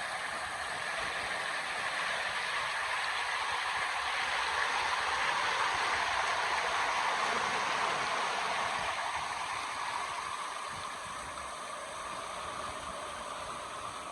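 A river's water running steadily, swelling a little louder midway and then easing back.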